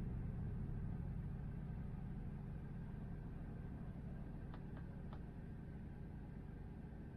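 Low road and tyre rumble of a Tesla electric car, with no engine note, fading slowly as the car slows. Three faint short clicks come a little past the middle.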